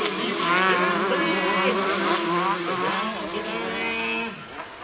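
Several 125 cc motocross bikes racing, their engines revving up and down through the gears at the same time. The sound dips briefly near the end.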